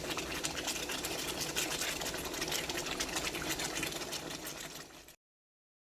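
Chicken cooking in a pan, sizzling and bubbling with a dense steady crackle; it cuts off suddenly about five seconds in.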